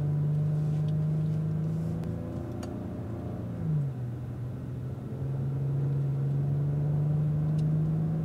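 Cadillac ATS-V's twin-turbo V6 pulling gently at low revs, heard from inside the car, its pitch rising slowly. A little under four seconds in, the pitch drops once as the automatic shifts up from first to second, then it starts climbing again.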